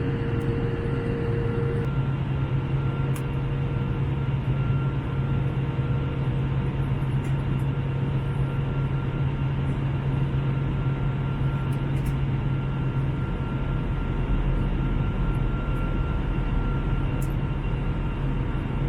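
Steady cabin noise of an Airbus A321 airliner in flight: an even rushing drone with a strong low hum and faint steady tones above it. A faint mid-pitched whine fades out about two seconds in.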